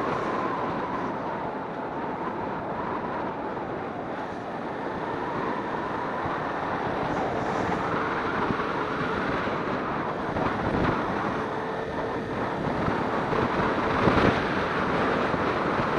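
Wind rushing over the microphone on a moving Suzuki Inazuma 250, with the bike's parallel-twin engine running underneath. It grows a little louder in the second half.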